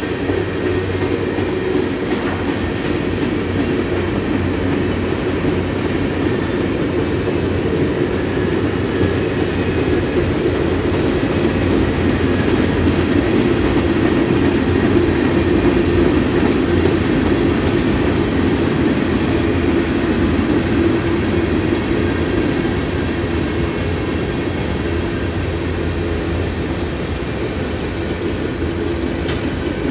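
Freight cars of a manifest train (bulkhead flatcars, covered hoppers, boxcars) rolling past on steel wheels: a steady rumble with wheel clatter, swelling a little in the middle.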